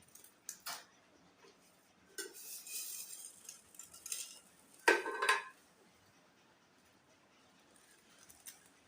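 Hard objects clattering and clinking: a few sharp clicks, then a rattling stretch, then a louder clatter with a short metallic ring about five seconds in.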